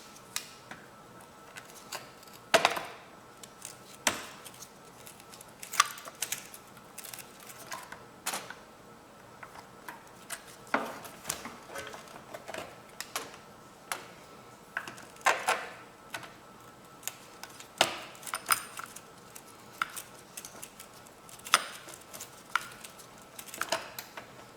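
Metal hand tools clicking and clinking against metal mower parts, in irregular separate strikes, while working at a bolt with an Allen key.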